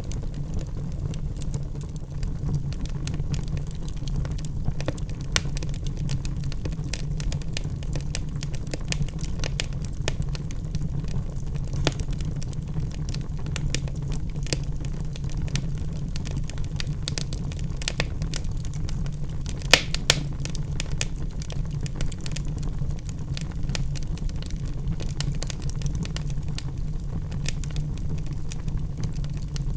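Wood fire burning in a fireplace: a steady low rumble of flames with frequent crackles and pops from the logs, two sharper pops about twenty seconds in.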